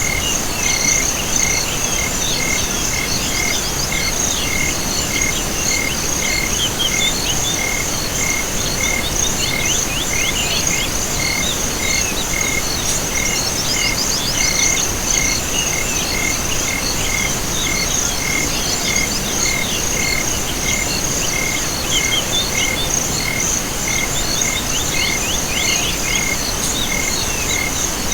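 A chorus of crickets and other calling insects. A high continuous trill runs under an evenly repeating note about one and a half times a second, with bouts of rapid chirping coming and going.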